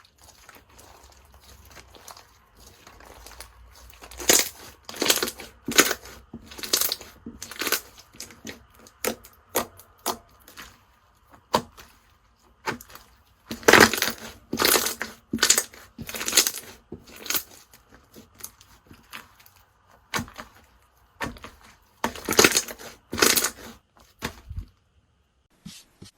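Slime being pressed and squeezed by hand, giving sharp crackling crunches. The crunches come in three runs of a few a second, with quieter squishing between.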